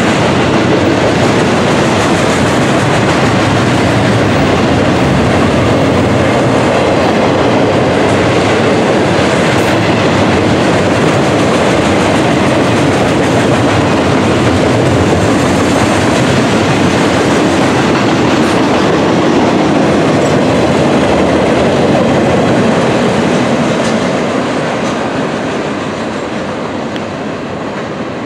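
Freight train of cars loaded with stacked garbage containers rolling past at speed: a loud, steady noise of steel wheels running on the rails. It fades over the last few seconds as the train draws away.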